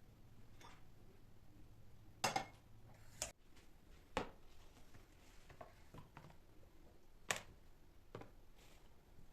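Kitchen dishes and utensils knocking and clinking now and then: a handful of sharp knocks with fainter clicks between them, the loudest about two seconds in.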